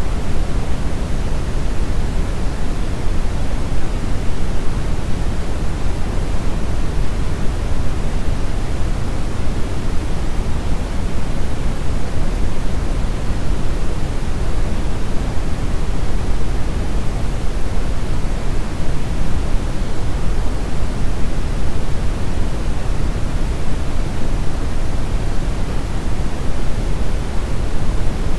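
Steady brown noise: a deep, even rushing hiss, heaviest in the low end and unchanging.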